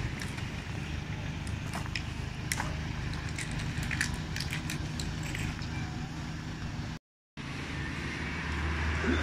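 A vehicle engine running steadily, with scattered sharp clicks over it. After a brief cut about seven seconds in, wind rumbles on the microphone.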